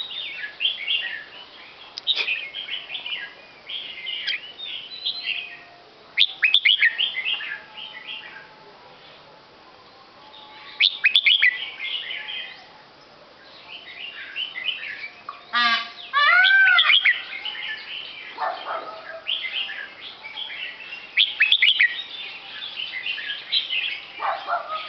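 Many small birds chirping and twittering in dense bursts, with a brief lull about a third of the way in. A single louder, arching call stands out a little past the middle.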